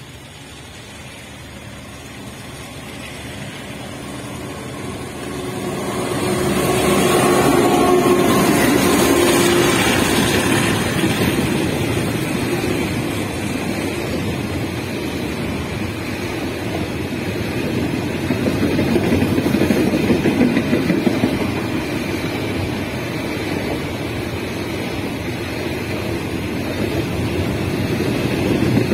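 Diesel locomotive approaching and passing, growing louder over the first several seconds and loudest with a few steady engine tones around eight to ten seconds in. It is followed by the steady rolling noise of a long container freight train's wagons running past on the rails.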